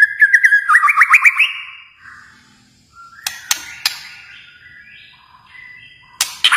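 White-rumped shama (Kalimantan murai batu) singing. A loud run of whistled notes and quick upward slurs opens the song, followed by quieter phrases with a few sharp clicking notes, and another loud phrase begins near the end.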